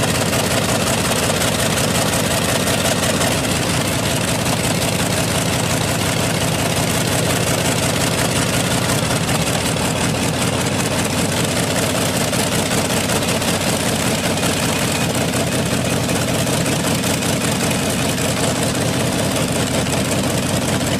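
Curtiss-Wright R-3350 18-cylinder radial aircraft engine in a custom tractor, running steadily with a rapid, even beat.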